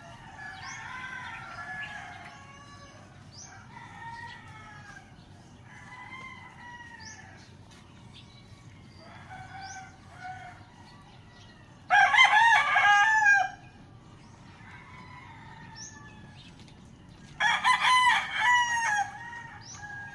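Domestic chickens calling while feeding, with quieter calls throughout. Two much louder, drawn-out calls of about a second and a half each, one about twelve seconds in and one near the end, fit a rooster crowing.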